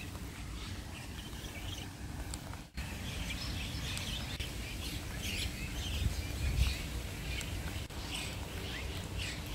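Small songbirds chirping and twittering in many short calls, busier after a brief break about two and a half seconds in, over a low steady rumble.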